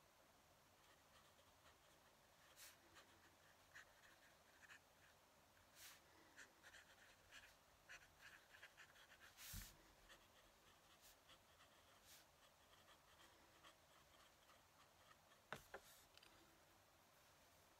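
Faint fountain pen nib scratching across paper in short, irregular strokes. A few soft taps are mixed in, with a louder knock about halfway through and a sharp click near the end.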